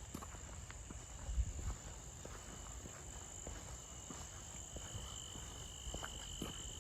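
Crickets or other insects chirring steadily outdoors: two unbroken high-pitched tones, with faint footsteps ticking now and then underneath.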